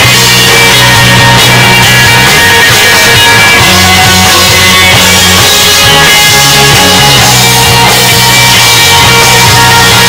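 A live country-rock band playing loudly and densely, guitars with a bass line moving underneath, without singing.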